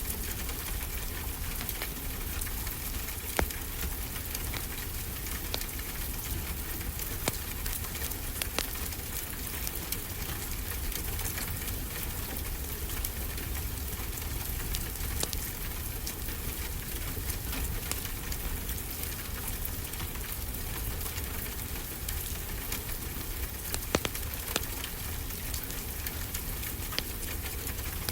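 Wood fire crackling in a fireplace, with frequent small sharp pops, over a steady wash of ocean surf and a low rumble.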